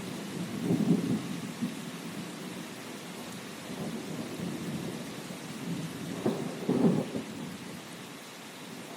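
Steady rain falling, with rolling thunder that swells about a second in and again, louder, around six to seven seconds in.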